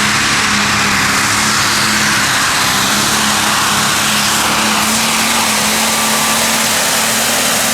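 Modified pulling tractor's engine running flat out at a steady pitch while it drags the weight-transfer sled down the track.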